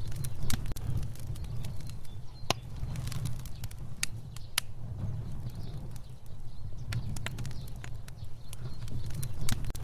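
Fire burning: a steady low rush of flame with irregular sharp crackles and pops.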